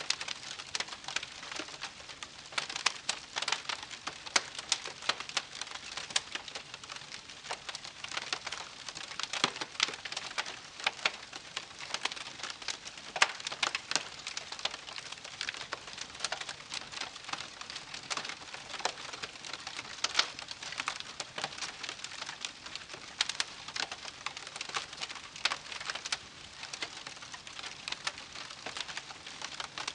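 Wood campfire crackling steadily, with frequent irregular sharp pops and snaps over a soft hiss of burning.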